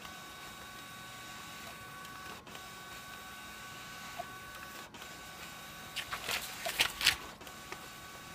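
ScanSnap document scanner feeding sheets, its motor whining steadily and pausing briefly about every two and a half seconds between pages. A flurry of clicks and rustles, the loudest sound here, comes about six seconds in.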